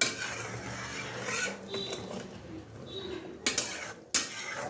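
Curry gravy bubbling in the pan as it comes to the boil, with two sharp knocks about three and a half and four seconds in.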